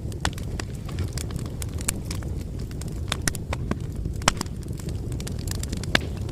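Campfire burning: a steady low rumble with irregular sharp crackles and pops, two louder pops about four and six seconds in.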